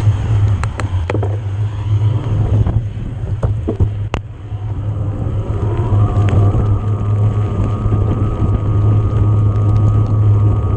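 Wind rumble on the camera microphone while riding an electric mountain bike, with scattered clicks and knocks from the bike over rough ground. About halfway through, a steady whine sets in, from the Yamaha PW-X mid-drive motor under assist.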